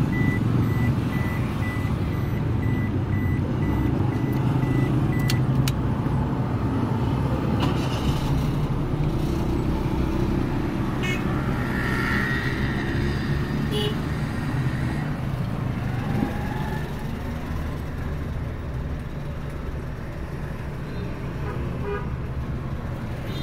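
A car engine running steadily, with a rapid series of short high electronic beeps for about the first five seconds.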